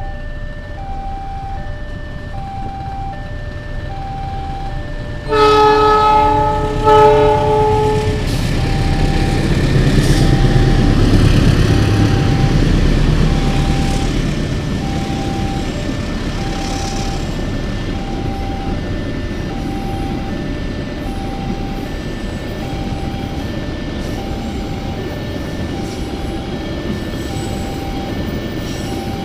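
Level-crossing warning alarm sounding a repeating electronic tone, about one beat a second. About five seconds in, the locomotive horn gives a long blast and then a shorter one. After that comes the steady rumble and wheel clatter of a freight train of fuel tank wagons passing.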